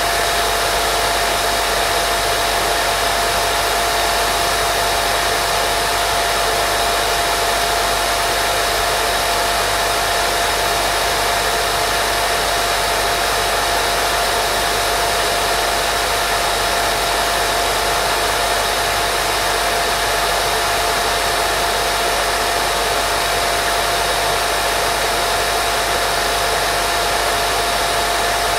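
Steady white noise for baby sleep: a constant, even hiss with a thin steady tone running through it, unchanging throughout.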